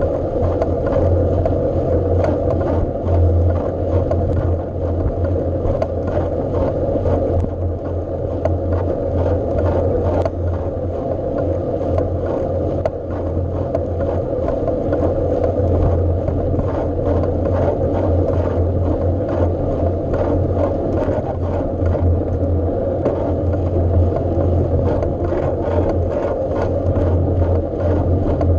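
Steady rumble of a bike being ridden, with a constant low drone and a busy stream of small rattles and clicks throughout.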